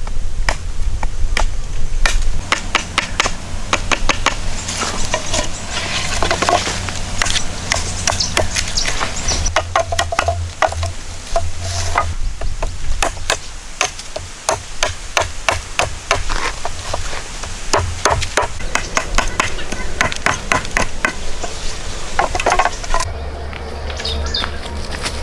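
An irregular series of sharp knocks and taps, often in quick runs, over a low steady rumble.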